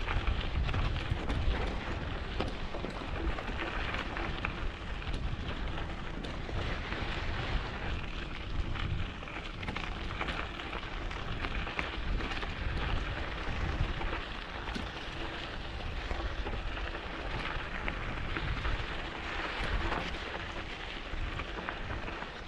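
Mountain bike riding over a dirt track: a steady crackle of tyres on loose ground, with wind rumbling on the microphone.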